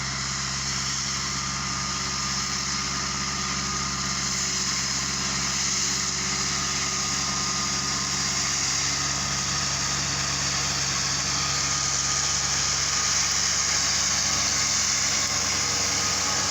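An engine running steadily at an even speed, with a steady high hiss over it.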